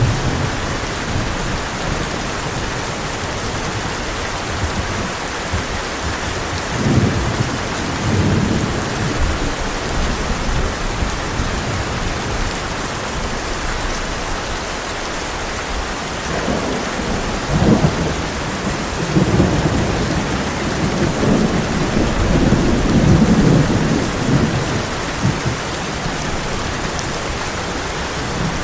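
Heavy rain drumming steadily on a tin roof, with rolling thunder rumbling low about a third of the way in and again, longer, through the latter half.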